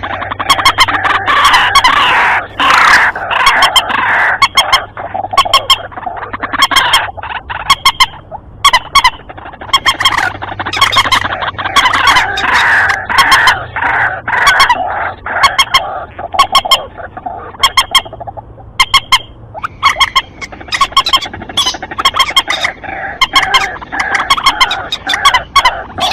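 Lure recording of white-breasted waterhens and common moorhens calling: dense, rapidly repeated calls with many sharp clicking notes, almost without pause, thinning briefly about three-quarters of the way through.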